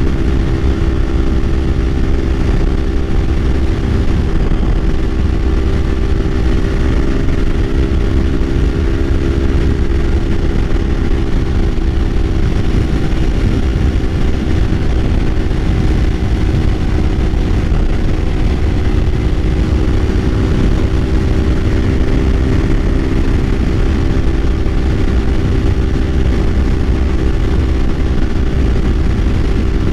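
Kawasaki Ninja 500 parallel-twin engine running at a steady cruise, its pitch holding nearly level, over a heavy low rumble.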